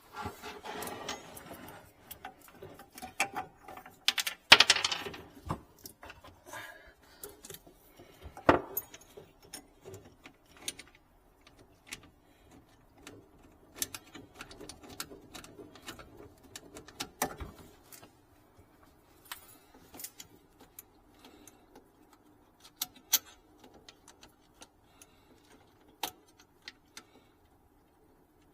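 Irregular clicks, clinks and metallic rattles of tools and plumbing fittings being handled, with a louder clatter about four seconds in.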